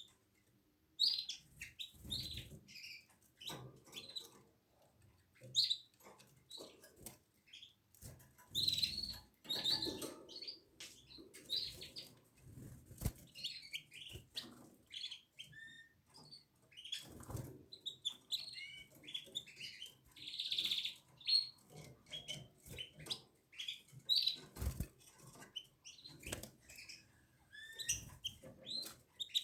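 Canaries giving many short chirps and calls, with wing flutters and low knocks and rustles of birds moving about the cage.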